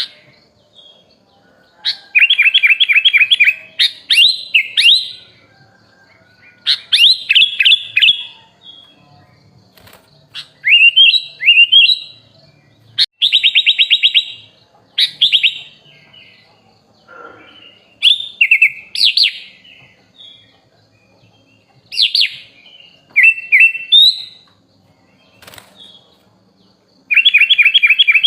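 Kutilang (sooty-headed bulbul) singing loud phrase after phrase. The phrases are rapid trills and quick rising whistled notes, with short pauses between them.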